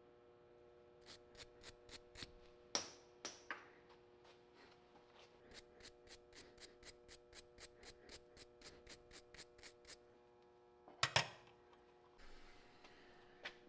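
A run of light clicks, about three a second, from hand work on small parts, with a few louder clicks and a sharp double click near the end, over a faint steady hum.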